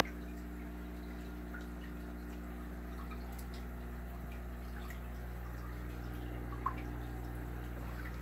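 Steady low hum of aquarium equipment with water trickling and dripping, and a small plink of water about two thirds of the way through.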